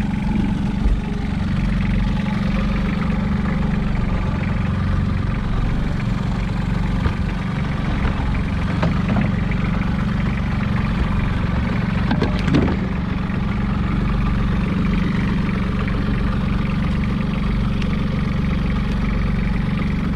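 Fishing boat's engine running steadily, with a short knock about twelve seconds in.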